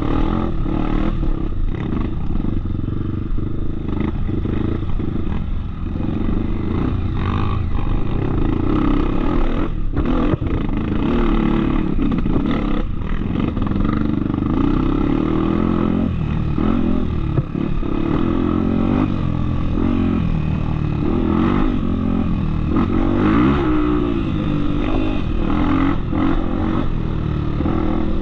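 Off-road trail motorcycle engine running continuously, its pitch rising and falling as the throttle is worked, with a few sharp knocks along the way.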